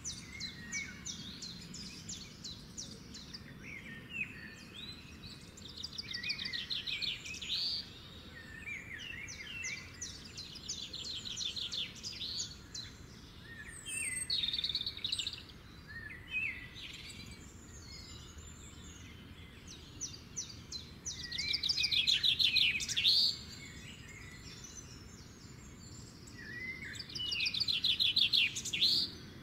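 Songbirds singing, one of them repeating a fast trilled phrase about one to two seconds long every few seconds, with shorter chirps from others between, over a steady low background noise. The trilled phrases are loudest a little past the middle and near the end.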